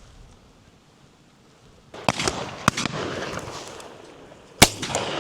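Shotguns firing at driven pheasants: a quick run of shots about two seconds in, echoing, then a single louder shot near the end.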